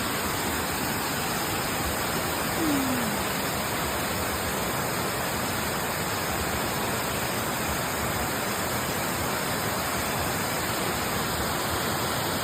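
Steady rushing of a waterfall, with a brief falling sound about two and a half seconds in.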